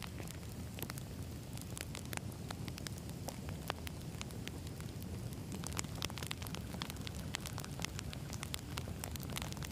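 Campfire of burning wood logs crackling, with frequent sharp irregular pops over a steady low rumble of the flames.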